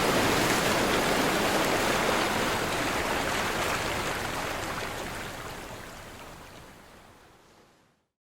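Ocean waves crashing on a shore, a steady wash of surf noise that fades away to silence near the end.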